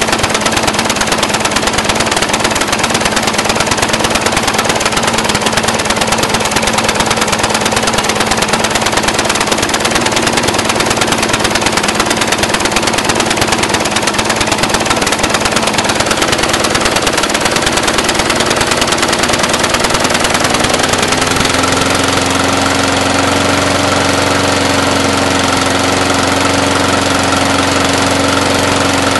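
Briggs & Stratton 450 series single-cylinder four-stroke lawn mower engine idling very rough and uneven, a sign of its fault: it is belching black smoke and sooting the spark plug. About two-thirds of the way through it settles into a smoother, steadier run.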